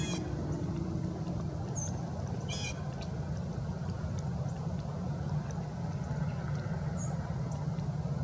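Two short, nasal bird calls, one at the start and one about two and a half seconds in, with a few faint high chirps, over a steady low rumble.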